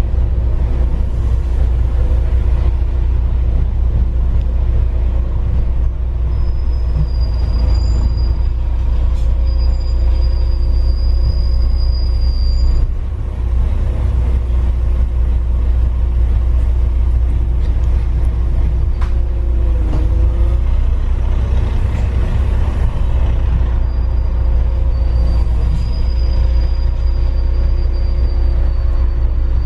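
Steady low rumble of a moving rail vehicle, with a thin high squeal held for several seconds twice: once near the middle and again near the end.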